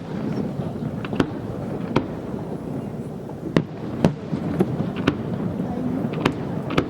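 Fireworks display: aerial shells bursting in a string of sharp bangs, about nine in seven seconds at uneven spacing, over a steady background murmur.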